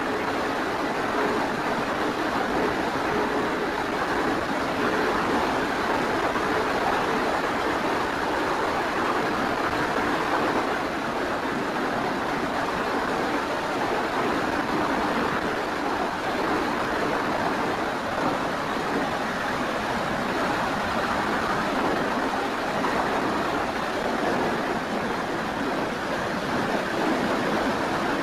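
Steady rush of wind and propeller noise heard from a small camera riding on an RC FMS Cessna 182 model in flight. A faint motor hum sits under the rush and is lower in pitch near the end.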